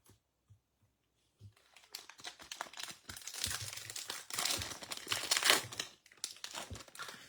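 A sealed pack of trading cards being torn open, its foil wrapper crinkling and ripping. It starts about two seconds in and is loudest around five seconds in, easing off near the end.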